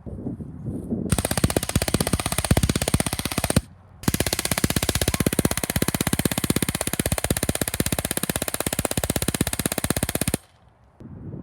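Rapid automatic gunfire in two long bursts: about two and a half seconds of fire, a brief pause, then about six seconds more before it cuts off.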